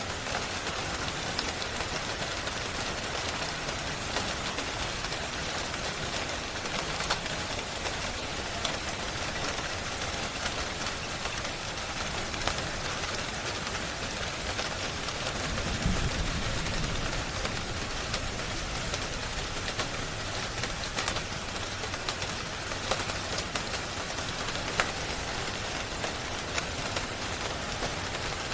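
Steady rain hiss mixed with a fireplace crackling in scattered short pops, with a low rumble lasting about two seconds just past the middle.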